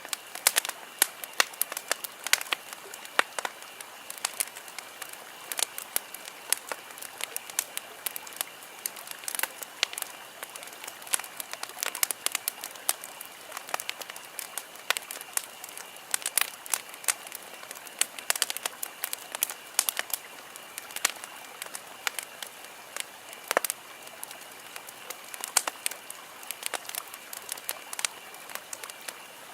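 Wood campfire crackling, with sharp irregular pops and snaps several times a second over a soft steady hiss of burning.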